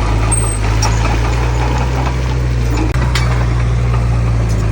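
Heavy diesel engine of earthmoving machinery running steadily at a constant pitch, with a few light metallic clinks over it.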